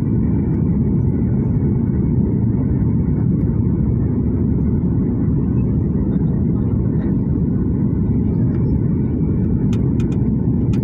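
Aeroplane's steady low rumble of engines and rushing air, even and unbroken.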